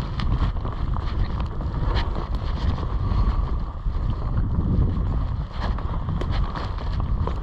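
Wind buffeting the microphone: a loud, uneven low rumble, with scattered small clicks and taps over it.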